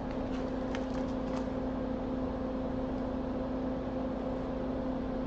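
Steady machine hum with a low tone and a second tone an octave above it, as from a fan or motor in bench equipment, with a few faint ticks about a second in.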